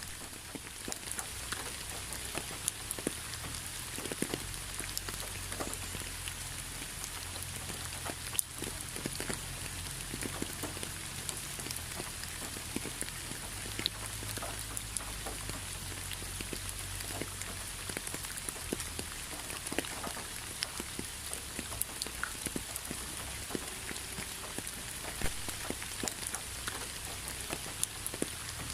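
Steady rain with many separate raindrops ticking irregularly on a surface, over an even hiss.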